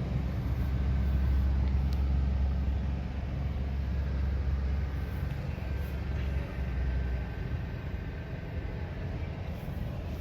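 An engine running steadily at low speed, a deep rumble that drops off about six and a half seconds in.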